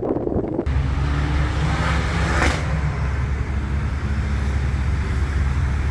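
BMW M3 E92's V8 idling steadily with a low exhaust note through an opened-up exhaust, with a short burst of wind noise on the microphone at the start.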